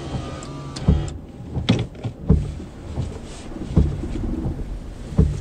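Car cabin rumble from a car driving on a road, with several sharp knocks and thumps at uneven intervals.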